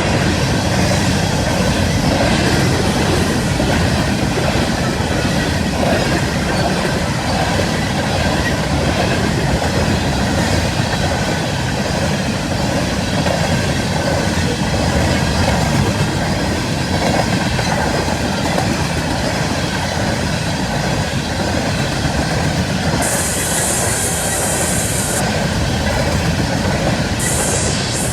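Long freight train of empty coal cars rolling past, steel wheels clattering steadily over the rail joints. A brief high-pitched squeal rises over the clatter about five seconds before the end, and again just before the end.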